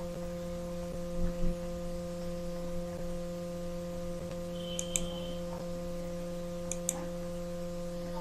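Steady electrical mains hum with several tones, broken by two soft thuds about a second in and a few sharp paired clicks later on.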